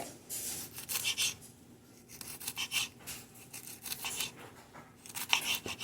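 Knife cutting jalapeño peppers on a cutting board: a run of irregular scraping and rubbing strokes.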